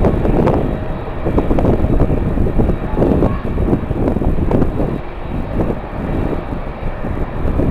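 Strong wind gusting over the microphone: a loud, uneven rush that rises and falls in gusts, heaviest in the low range.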